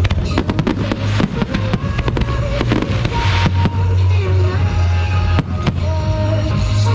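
Fireworks bursting and crackling in rapid clusters over loud music with a heavy bass, the bangs thickest in the first half and thinning out later.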